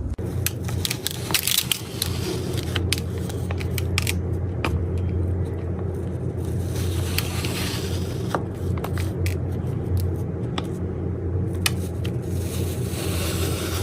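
A machine running with a steady low hum, with irregular sharp clicks and crackles throughout.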